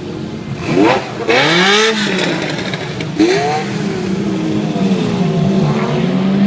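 Car engines being revved, their pitch climbing sharply and falling back several times, with quick blips about a second in and again about three seconds in.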